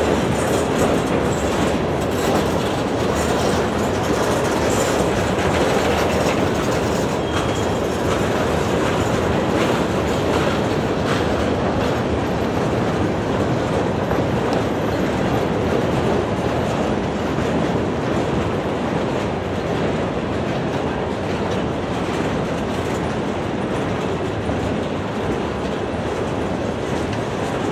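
A freight train of loaded gondola cars rolling steadily past, with a steady rumble of steel wheels on rail and clicking as the wheels pass over rail joints.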